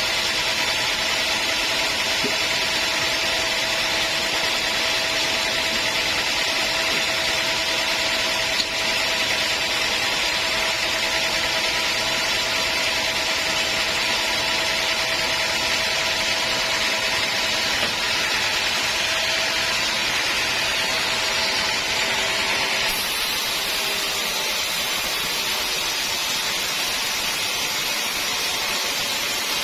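Sawmill saw cutting a teak log: a steady, loud sawing noise with a faint whine. The whine drops out and the sound changes about 23 seconds in.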